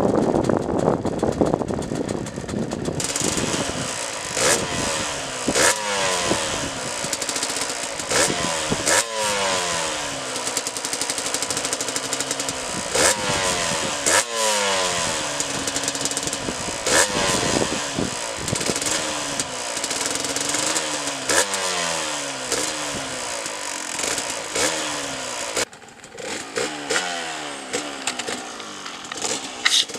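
Yamaha DT125 two-stroke enduro with a full Giannelli exhaust, revving hard again and again. The pitch climbs, drops back and climbs again every second or two, with sharp cracks. It eases off about 26 seconds in.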